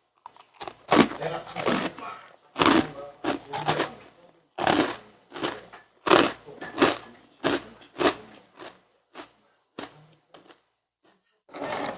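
Close-up chewing and crunching of food in the mouth: a string of short, irregular crunches.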